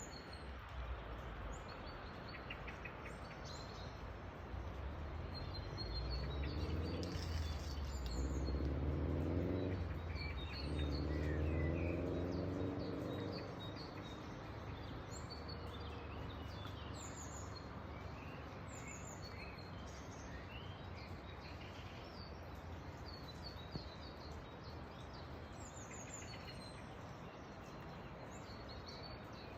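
Small birds chirping over a steady background hiss. For several seconds in the first half, a low droning hum swells and then fades away.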